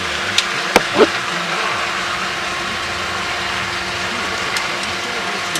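Steady drone of a Cessna 310's twin piston engines, heard through the intercom audio feed, with a few sharp clicks in the first second or so.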